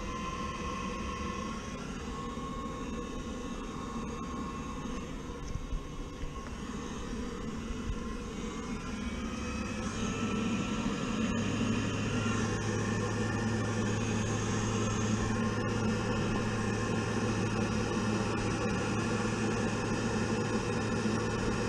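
Gas boiler's inducer fan motor running steadily during a start-up attempt. It grows louder about ten seconds in, and a steady low hum joins it shortly after.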